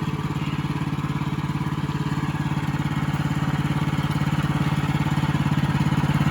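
Woodland Mills portable sawmill's small gasoline engine running steadily with an even, fast pulse while the saw head is cranked down between cuts, growing slightly louder toward the end.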